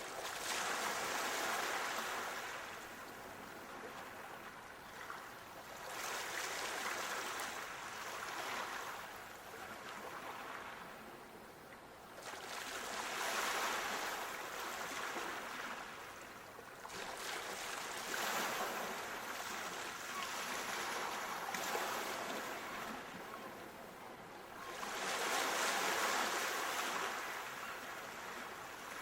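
Ocean surf washing in and drawing back: five swells of rushing water noise, each building and fading over a few seconds.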